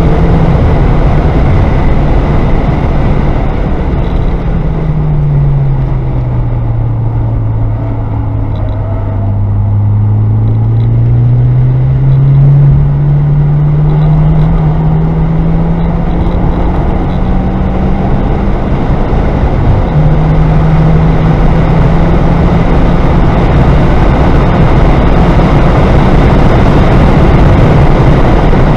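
Car engine and road noise heard inside the cabin on track. The engine note falls as the car slows for a tight corner about five to nine seconds in, then climbs steadily as it accelerates out. It breaks briefly and drops in pitch at an upshift about twenty seconds in, then holds steady at speed.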